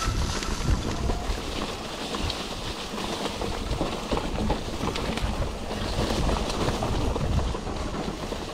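Mountain bike rolling over a rough dirt trail: tyres on the ground and the bike rattling with many small clicks, with wind buffeting the microphone.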